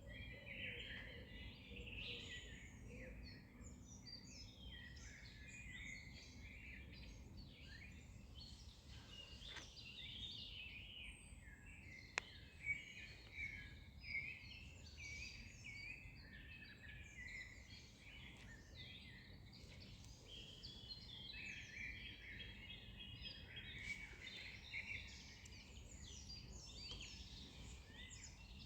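Many wild birds singing at once, a dense mix of overlapping chirps and trills, over a faint low rumble. A single sharp click cuts through about twelve seconds in.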